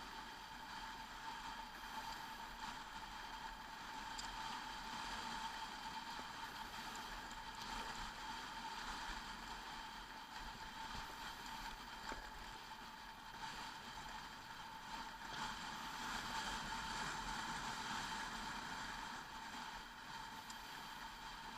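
Motorcycle running at a steady cruising speed, with its engine's steady hum and wind noise on the camera microphone.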